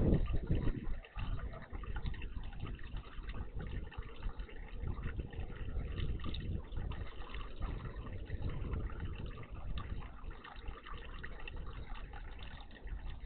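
Water splashing and trickling in a garden bird bath over a steady low rumble, loudest in the first second.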